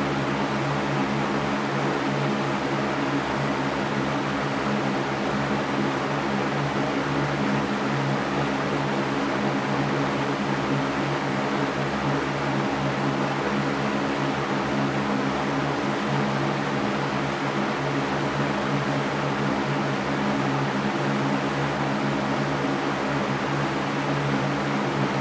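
Electric fan running steadily: a constant airy rush with a low motor hum underneath.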